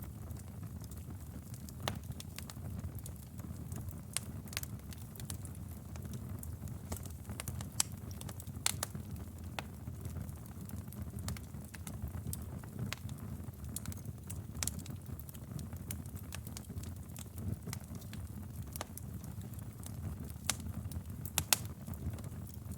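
Wood fire burning in a fireplace: a steady low rumble of flames with irregular sharp pops and crackles, a few louder pops standing out.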